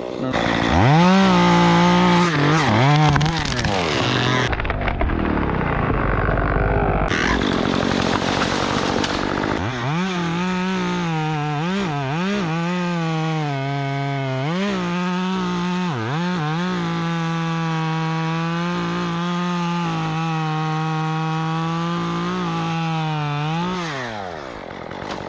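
Stihl MS 194T top-handle two-stroke chainsaw, fitted with a 1/4-inch pitch ripsaw conversion bar and chain, revving high with short dips in speed while cutting wood. It runs rougher and lower in the middle, then holds steady at high revs and drops back down near the end.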